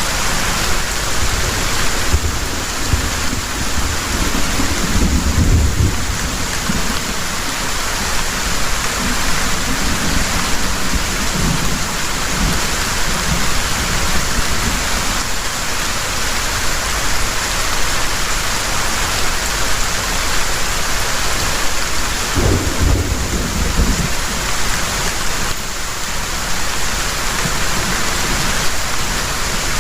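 Heavy rain falling steadily, with low rumbles of thunder: one rolling in a couple of seconds in and lasting several seconds, another shorter one about three-quarters of the way through.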